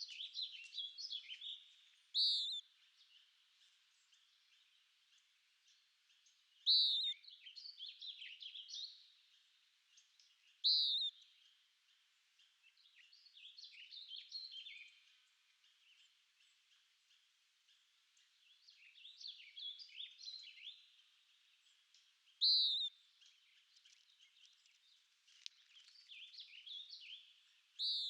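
Songbirds singing: warbled phrases of one to two seconds come every few seconds, broken by short, loud, sharp notes about five times.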